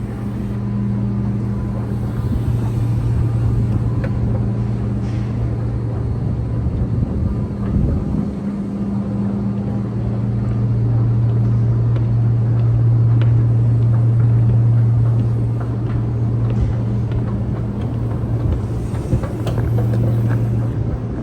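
Steady low mechanical hum with a rumble underneath, easing briefly about eight seconds in, with a few faint ticks.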